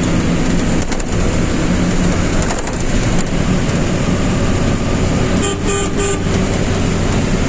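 Road traffic noise with vehicle engines running steadily and a horn honking about five and a half seconds in.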